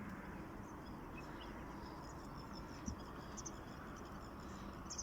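Faint outdoor marsh ambience: a low steady hiss with scattered faint, high, short bird chirps, and one soft knock about three seconds in.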